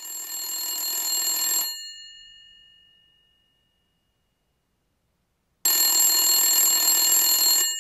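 A bell ringing twice, like an old telephone bell, each ring lasting about two seconds. The first ring fades out with a lingering tail, and the second starts abruptly about five and a half seconds in.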